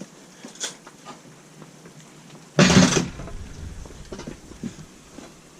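Steel parts being handled and fitted together: a few light knocks and clicks, and one loud, short clunk about two and a half seconds in.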